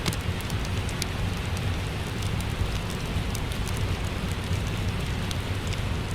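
Steady rain with a low rumble beneath it, and the small pops and clicks of a crackling wood fire scattered through it.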